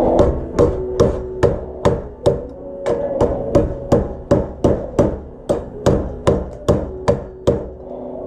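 A hammer striking metal plate in a steady rhythm, a little over two blows a second, each blow leaving the metal ringing; the blows stop shortly before the end.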